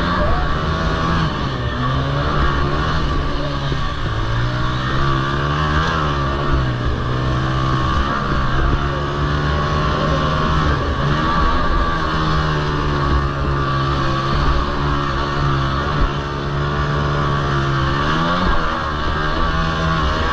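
Honda TRX90 quads racing: their small four-stroke single-cylinder engines rev up and fall back over and over as they go around the track, with a sharp rise in pitch near the end.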